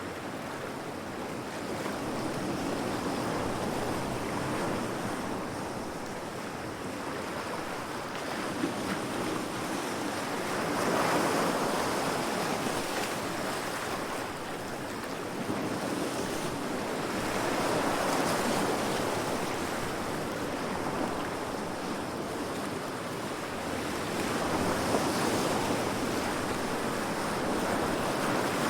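Heavy sea waves crashing against rocks: a continuous wash of surf that swells into a louder surge about every seven seconds, three times.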